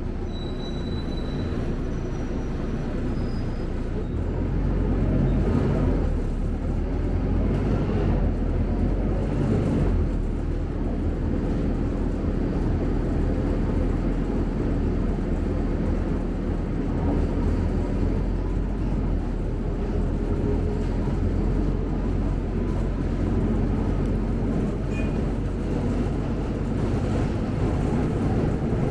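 Interior of a Scania K270UB city bus under way: engine and road noise form a steady low rumble, getting a little louder about four seconds in.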